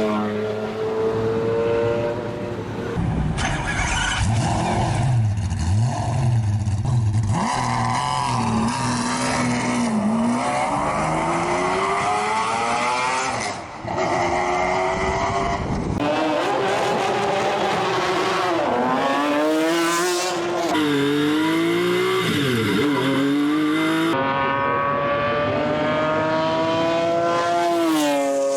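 McLaren F1's BMW V12 revving hard and accelerating through the gears, its pitch climbing and dropping again and again. The sound comes from several spliced recordings, and near the end the car rises in pitch and then falls away sharply as it passes.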